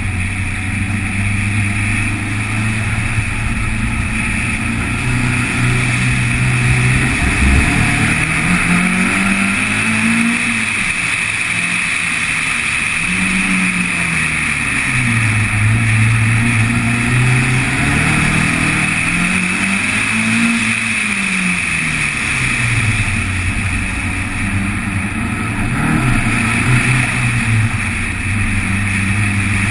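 Car engine driven hard around a race circuit, its revs climbing and dropping several times as it accelerates down the straights and slows for the corners, over a steady hiss of wind and road noise.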